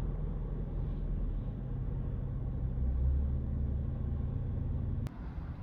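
Steady low rumble of a running vehicle, with a sharp click about five seconds in, after which the rumble drops.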